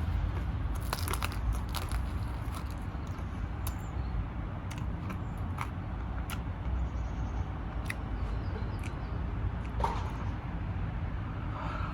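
A person eating pizza fast, with scattered small clicks and crackles of biting and chewing over a steady low hum.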